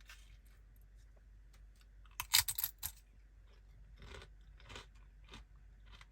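A person eating: a quick run of crunching a little over two seconds in, then a few softer chewing crunches about once a second.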